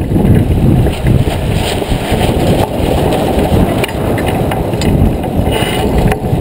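Wind buffeting the microphone aboard a J24 sailboat under way: a loud, rough, steady rumble.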